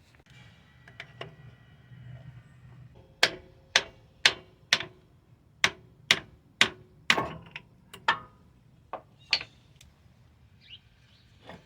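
Sharp metallic knocks, about a dozen in a row roughly half a second apart, each ringing briefly: steel tools striking as the driver-side CV axle of a Toyota Sienna is pried out of the automatic transmission.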